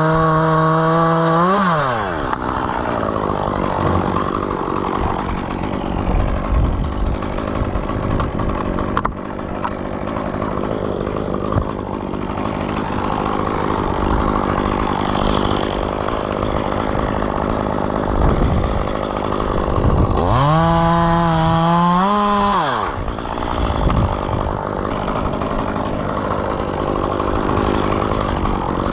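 Gas chainsaw cutting a maple. It runs at full throttle at first, then bogs down into a long cut for most of the time, revs free again about two-thirds of the way in, and goes back into the wood, revving up again near the end.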